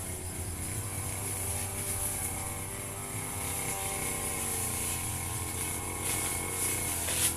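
Firman FGB 528 brush cutter's petrol engine running steadily while cutting grass, with a brief louder burst near the end.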